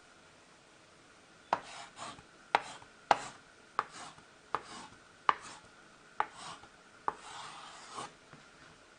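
A series of about eight sharp taps, roughly one a second at an uneven pace, each followed by a short, softer scrape.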